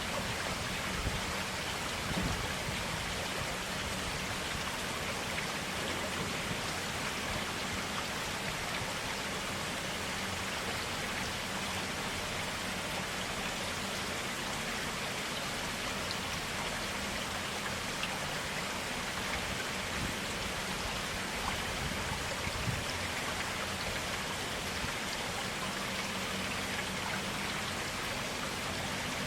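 Water flowing in a forest stream, a steady, even rush of running water.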